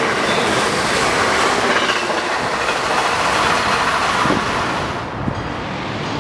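Amtrak passenger cars passing the platform at speed: a steady noise of the train going by, which falls away about five seconds in as the last car clears.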